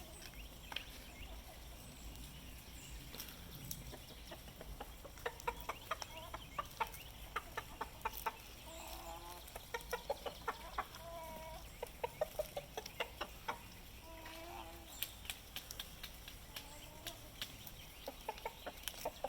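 Backyard chickens clucking while they eat scraps of tomato and lettuce: a quick run of short clucks starting about five seconds in, with a few longer calls in the middle.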